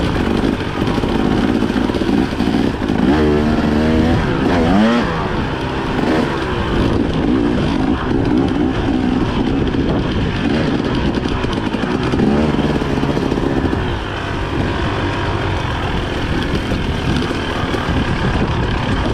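Dirt bike engine running while being ridden, its revs rising and falling with the throttle, and clear climbs in pitch about three to five seconds in and again about twelve seconds in.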